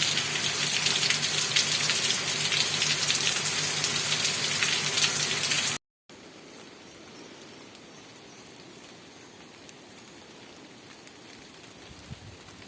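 Steady rain pattering on a surface, loud and dense, with a low steady hum beneath. It cuts off abruptly about six seconds in and gives way to much fainter rain.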